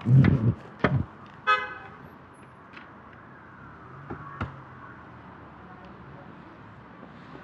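A short vehicle horn toot about a second and a half in, after a few low thumps. A faint, steady low engine hum follows.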